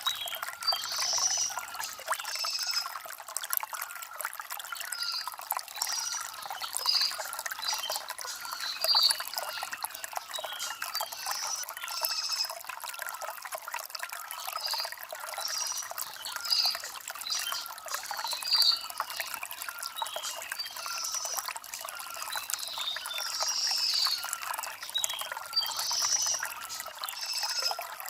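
Shallow stream water trickling and bubbling over river stones, steady throughout, with short bird chirps scattered over it.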